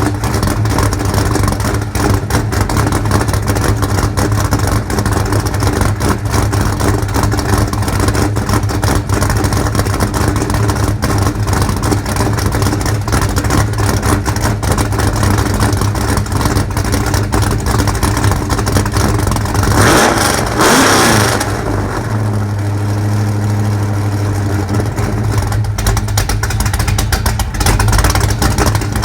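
Ford 347 stroker small-block V8 running cold shortly after a cold start, a condition it doesn't like. It idles steadily, with one quick rev about twenty seconds in that rises and falls back to idle.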